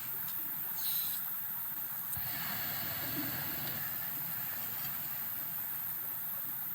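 Gas camp cooker burner hissing steadily, the hiss growing a little stronger about two seconds in.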